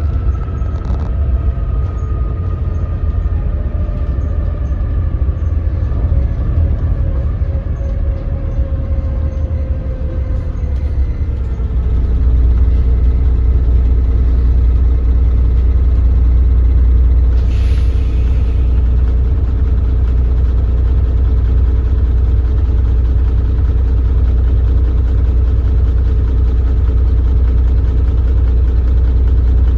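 Doosan DL08K six-cylinder diesel of a BS106 city bus, its note falling as the bus slows. From about twelve seconds in it settles into a steady, louder low drone at idle, the heavy engine vibration at standstill that the uploader notes. A short burst of air hiss comes about eighteen seconds in.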